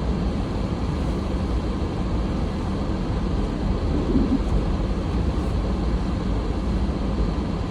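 Steady low rumble of a car driving slowly, heard from inside the cabin: tyre, road and engine noise with a faint steady hum.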